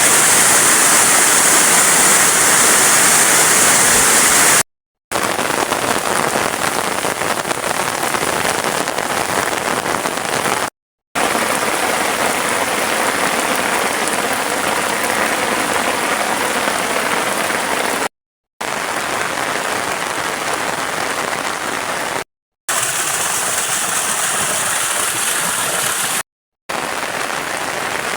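Heavy rain falling, a loud steady hiss of rain on surfaces, cut off by brief silences five times.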